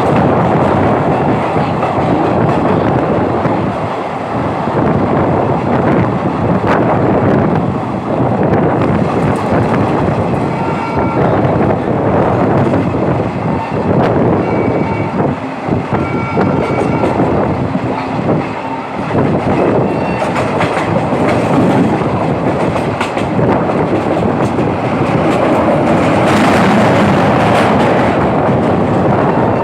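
Passenger train running at speed, with a continuous rumble and the clickety-clack of its wheels over rail joints.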